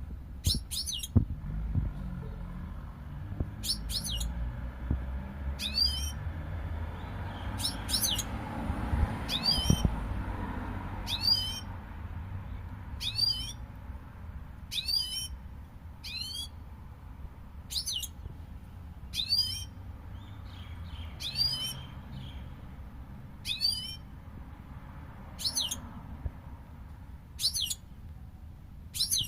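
A European goldfinch calling: a short, high call that rises and falls, repeated about every one to two seconds.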